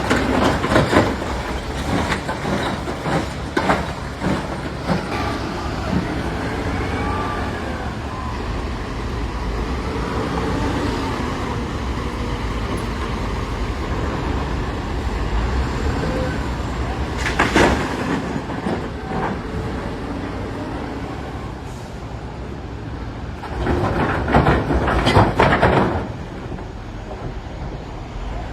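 Caterpillar 966D wheel loader's diesel engine running under load, its revs rising and falling, with loud crashing bursts of rock, once about 17 seconds in and again for a couple of seconds near the end.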